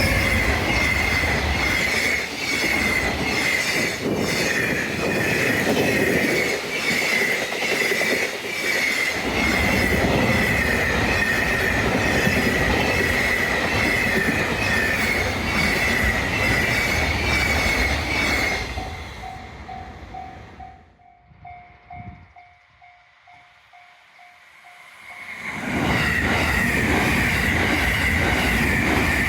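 Trains passing at speed on rails: wheel-and-rail noise with a steady high-pitched ringing and rail-joint clatter. It fades at about 19 s to a quiet stretch with a faint, evenly pulsing tone, and a second train passes from about 26 s.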